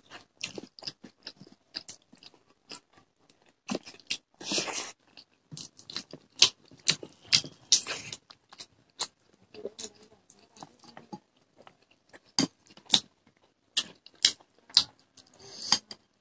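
Close-up chewing of rice and curry: irregular wet mouth smacks and clicks, with a short crunch now and then.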